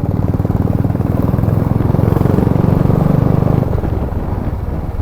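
Motorcycle engine and exhaust running at riding speed, a steady pulsing beat from bikes fitted with changed aftermarket silencers, easing off a little near the end.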